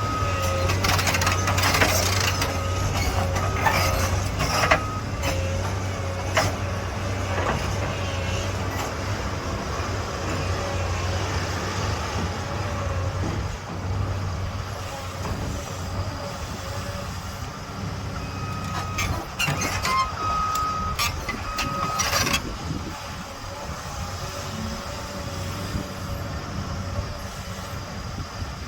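Excavator diesel engine running steadily, with a backup alarm beeping in two spells, at the start and about two-thirds through, and a few sharp knocks.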